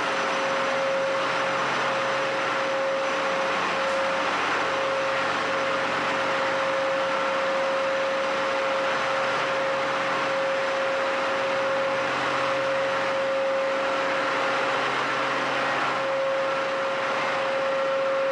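Ship's engine-room machinery running steadily: a constant mechanical din with a steady whine holding one pitch throughout.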